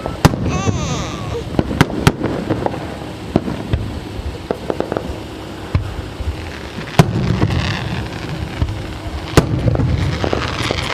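Fireworks going off: irregular sharp bangs and pops with crackling between them, and a whistling glide about half a second in.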